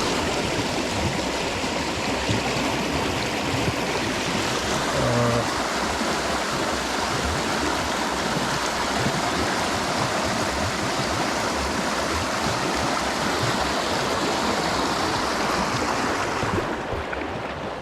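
Creek water rushing steadily, running swift after a flash flood; the rush thins out near the end.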